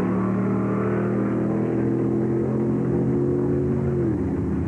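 Drag-racing car's engine accelerating down the strip, its pitch climbing steadily for about four seconds and then dropping near the end.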